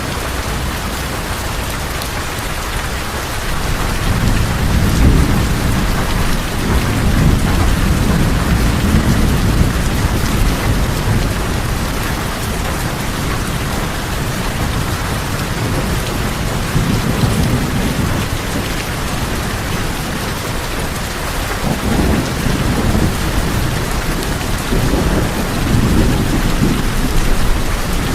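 Steady rain on tin roofs, an even hiss and patter. Low rolls of thunder rumble through it several times, the longest late on.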